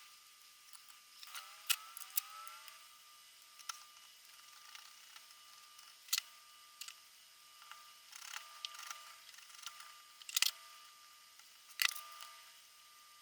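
A few sharp, light clicks spaced several seconds apart, over a faint steady whine that briefly rises in pitch about a second and a half in.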